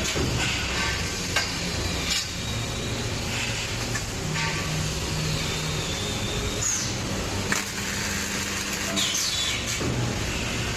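Flash butt welding machine running with a steady electrical hum, broken by a few sharp cracks.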